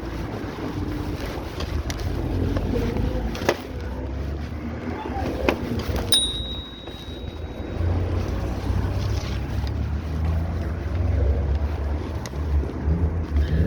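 Wind buffeting the microphone of a moving bicycle rider, a steady low rumble that swells from about eight seconds in, with a few light clicks and one short high ding about six seconds in.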